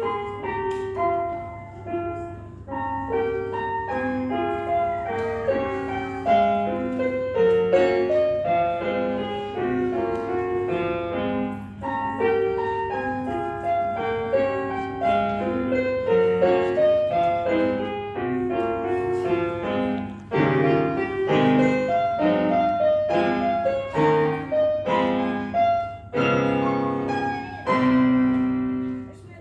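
Solo piano playing a continuous stream of notes and chords, with a faint steady low hum underneath.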